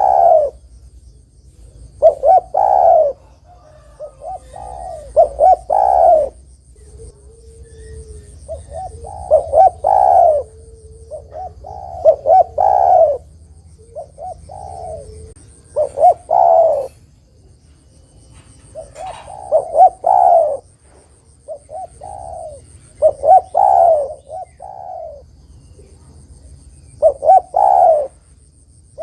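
Spotted dove (derkuku) giving its cooing call over and over: about ten loud phrases of a few quick coos each, a second or two apart.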